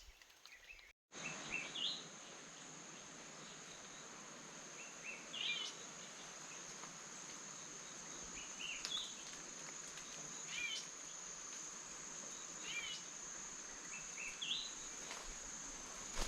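Forest ambience. An insect, cricket-like, keeps up a steady high-pitched drone, and a bird gives short chirping calls every couple of seconds. The sound cuts out briefly about a second in.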